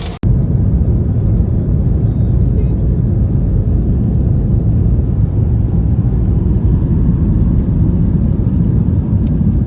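Loud, steady low rumble of a vehicle in motion, heard from inside. It cuts in after a brief dropout just at the start.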